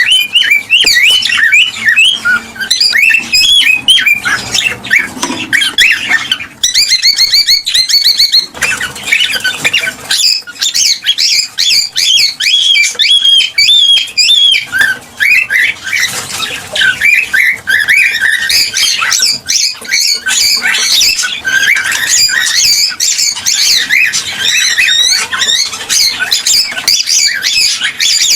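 Cockatiels chattering, squawking and whistling continuously, with a quick run of rapidly repeated notes a few seconds in.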